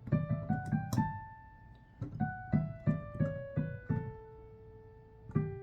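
Piano keyboard playing a single-note melody line: a quick rising run to a held note about a second in, then a run stepping down the D major scale to another held note, and a fresh note struck near the end.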